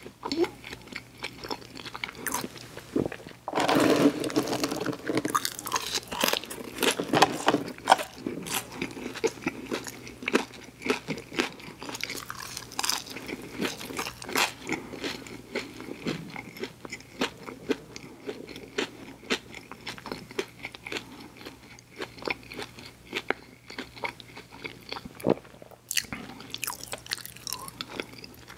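Close-miked mouth sounds of a person chewing a fast-food meal with french fries: crunches, wet smacks and clicks throughout, loudest and densest for a couple of seconds about four seconds in.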